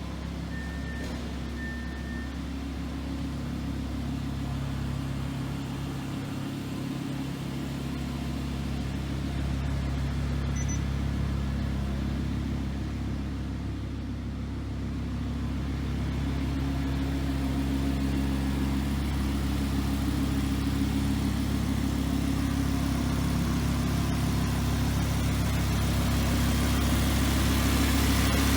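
Audi R8's 5.2-litre V10 engine idling steadily, its note shifting slightly and growing a little louder over time.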